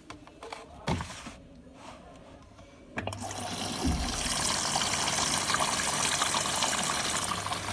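Hotpoint WT761 Ultima washing machine: a few knocks, then about three seconds in water suddenly starts rushing through the machine with a steady low hum under it.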